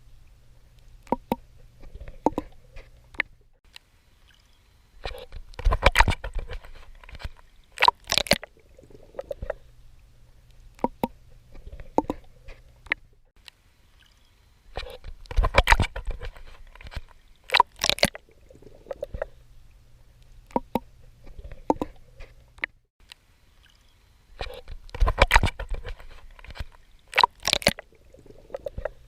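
Swimming in water: sloshing splashes from strokes with sharp clicks and drips. A burst of heavier splashing comes back about every ten seconds, in a steady looping cycle.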